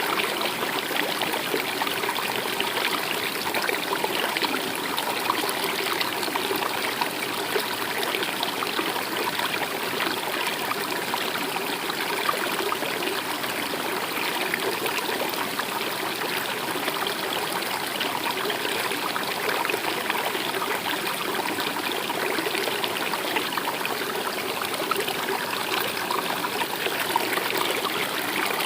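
A stream running steadily, an even rush of trickling water with no change throughout.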